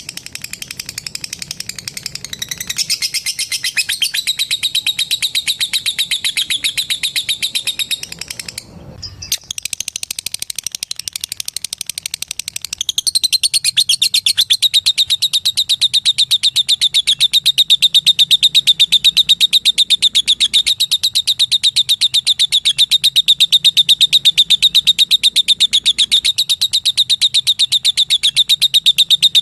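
Lovebird giving the long, rapid chattering trill that keepers call "ngekek": a continuous stream of fast, high-pitched notes. It breaks off briefly about nine seconds in, then resumes and grows louder from about thirteen seconds in.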